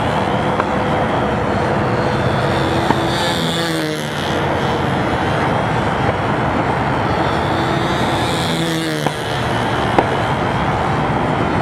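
Control-line model airplane's small fuel-burning engine running at a steady high speed as the plane circles on its lines; the pitch sweeps down and back up about every five seconds, once each lap as it passes.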